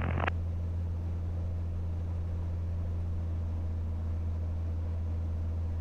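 Cirrus SR22T's turbocharged six-cylinder Continental engine running steadily at run-up power, about 1700 rpm, during the magneto check, heard as a steady low drone.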